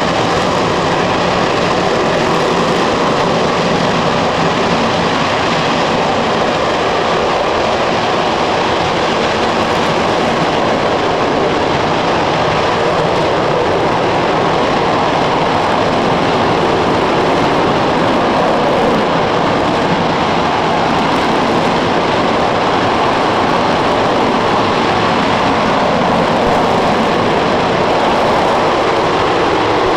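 RS-25 liquid-hydrogen/liquid-oxygen rocket engine firing steadily on a test stand, a loud, even rushing roar that holds constant throughout.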